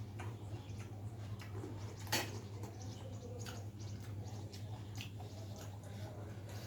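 Pani puri being chewed close to the microphone: soft wet mouth clicks and crunches, with one sharper click about two seconds in, over a steady low hum.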